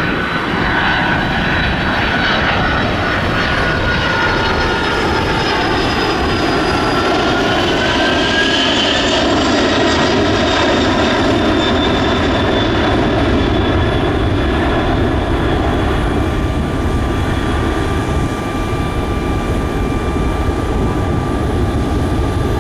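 Kawasaki C-2 transport's twin turbofan engines during a display flight: a loud, steady jet rush with whining tones that slide down and then back up in pitch as the aircraft passes.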